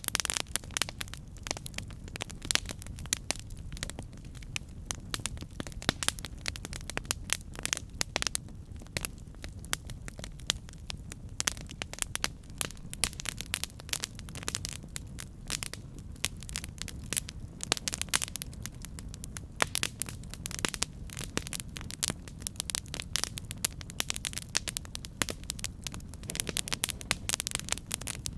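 Wood fire burning: dense, irregular crackles and pops of burning wood over a steady low rumble of flames.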